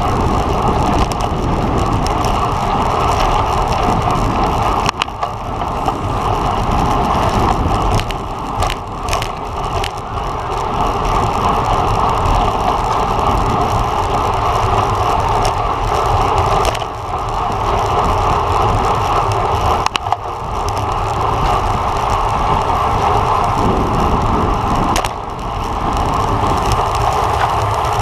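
Steady rush of wind and tyre-on-road noise from a road bike ridden at racing speed, with a few brief dips in level.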